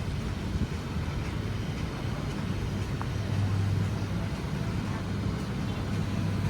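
Steady low rumble of vehicle engines in city street traffic, swelling slightly about three seconds in.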